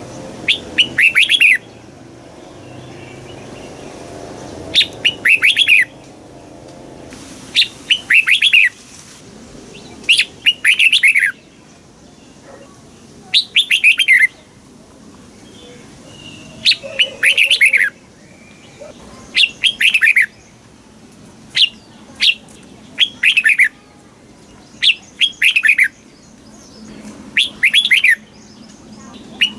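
Red-whiskered bulbul singing: short, loud phrases of quick descending whistled notes, repeated about every two and a half seconds.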